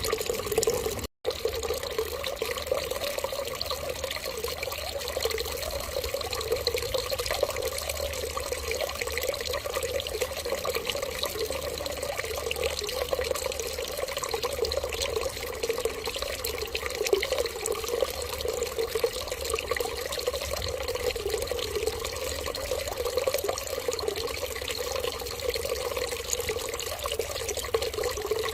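Steady running water, an even, unbroken stream that cuts out for a split second about a second in.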